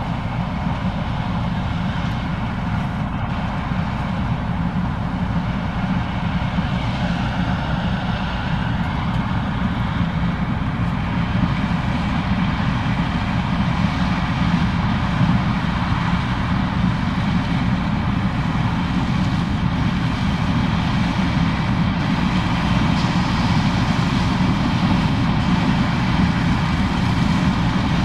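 Case IH 2366 combine's diesel engine and threshing machinery running steadily while harvesting corn: a low, even drone that grows slightly louder over the stretch.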